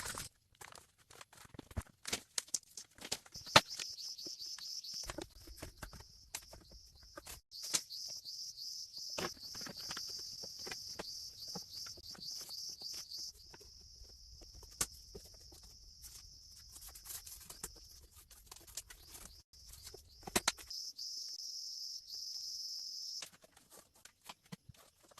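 Insects buzzing in a high, steady drone that stops and starts several times, over scattered sharp clicks and knocks.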